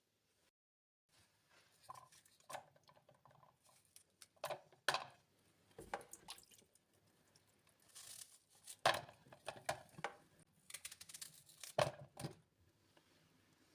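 Kitchen food-preparation sounds: scattered light knocks and clicks with some rustling and crinkling, the sharpest knocks about five, nine and twelve seconds in.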